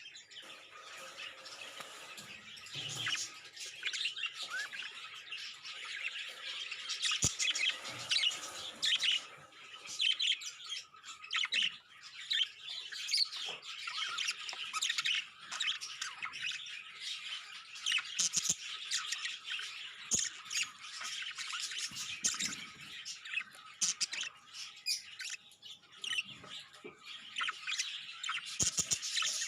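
Budgerigars chattering with a steady stream of rapid chirps and squawks, with a few sharp clicks among them.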